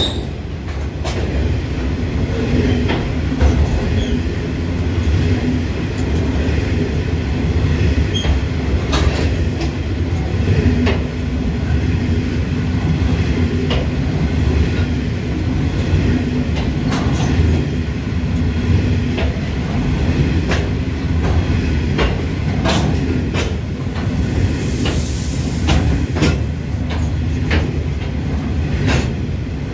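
A train passing, with a steady low rumble and a hum, its wheels clacking sharply over rail joints at irregular intervals.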